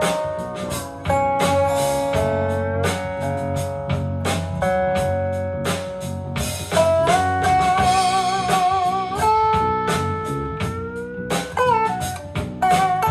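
Rock song played back through a portable Bluetooth speaker: an instrumental guitar solo with long, bending notes and vibrato over steady drums and a heavy bass line.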